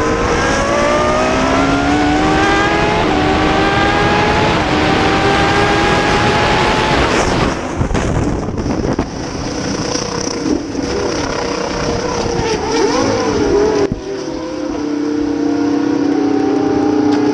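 Race car engines running at high revs on track, their pitch climbing through the gears. About halfway through, the sound changes abruptly: engine pitch swings up and down, then holds steady near the end.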